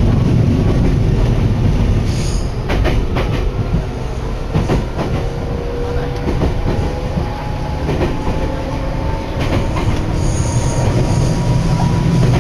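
Senseki Line electric commuter train running, heard from inside the carriage: a steady low rumble with scattered knocks from the wheels, and a faint whine that rises slowly in pitch.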